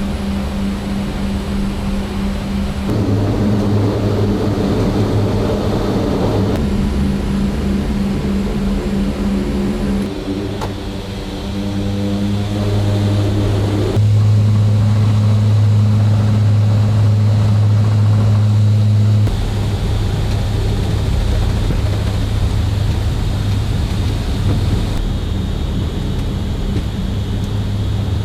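The four turboprop engines and six-blade propellers of a C-130J Super Hercules running with a steady, deep drone. The pitch and loudness shift abruptly several times.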